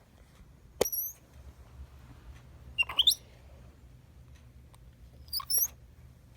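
Spider monkey giving three short, very high squeaks that sweep upward in pitch, about a second, three seconds and five and a half seconds in.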